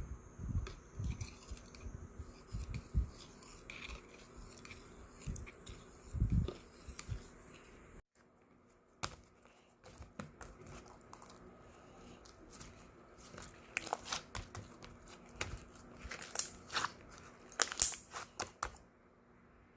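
Handling noises while making slime: thumps and crinkling, then a run of sharp crackling and tearing clicks that grow louder toward the end, with a brief break about eight seconds in.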